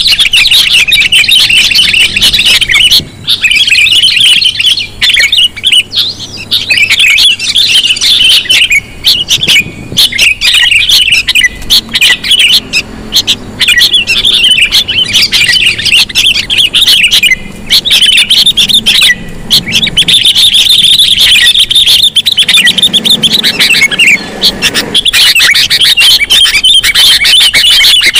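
Sooty-headed bulbul (kutilang) calls used as a bird-trapping lure: a loud, dense run of rapid chirps and chatter with only brief breaks.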